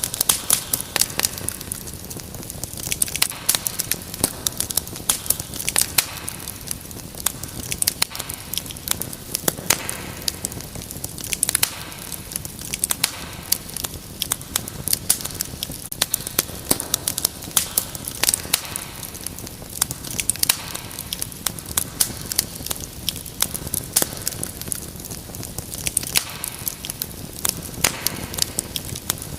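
Wood fire crackling steadily, with many sharp pops and snaps over a soft hiss.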